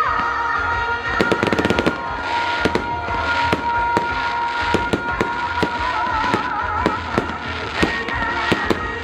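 Fireworks going off in quick, irregular bangs and crackles over music that holds long sustained notes.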